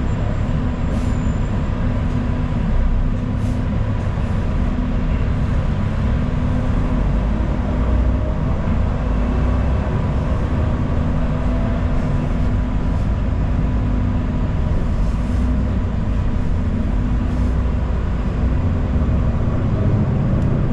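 Steady low rumble of a city bus in motion, heard from inside the cabin, with a faint steady whine and a few light rattles.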